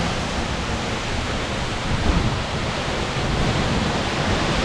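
Steady rush of the Seljalandsfoss waterfall close by, with wind buffeting the microphone.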